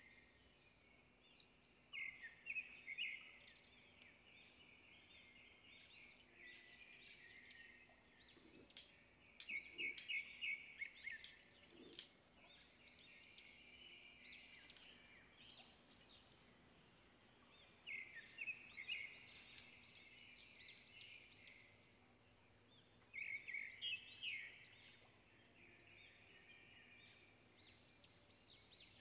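Faint birdsong: bursts of quick chirping that come and go, with a few sharp clicks about nine to twelve seconds in.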